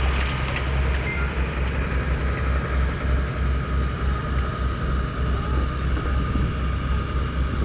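1944 Farmall H tractor's four-cylinder engine running hard under full load, pulling the weight sled in a tractor pull. It is a loud, steady, low throbbing engine sound.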